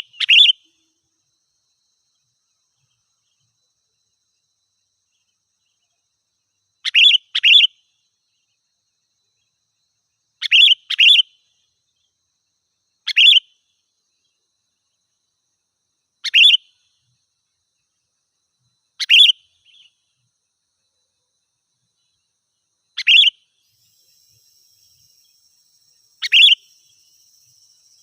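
Sooty-headed bulbul (kutilang) giving short, sharp calls, sometimes in quick pairs, every few seconds. A faint steady insect trill comes in near the end.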